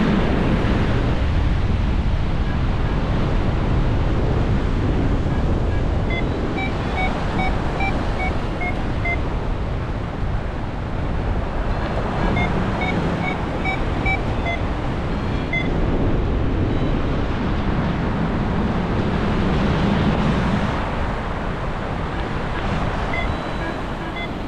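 Strong wind buffeting the microphone, a steady rushing noise with a low rumble. The wind screen is worn out. Short electronic beeps come in three runs, each stepping up and down a little in pitch. They sound like a paragliding variometer signalling lift.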